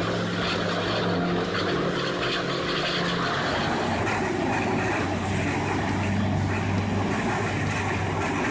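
A large wood-processing machine runs steadily under load, its engine droning over a noisy grinding haze. The sound changes about four seconds in.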